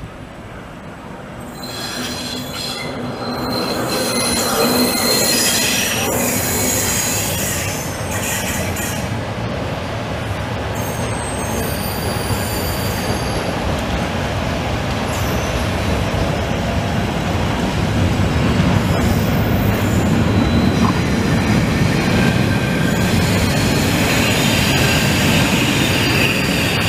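A Network Rail test train headed by a Class 73 electro-diesel locomotive pulls into a station platform. Its rumble grows louder as it approaches and draws alongside, with high-pitched wheel squeal from the rails.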